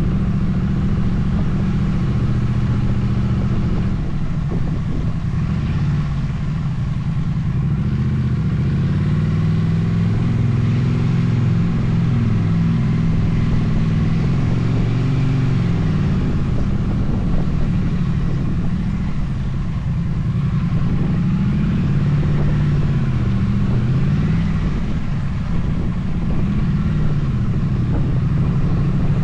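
Motorcycle engine running under way, its pitch rising and falling again and again with throttle and gear changes, over a steady rush of wind noise.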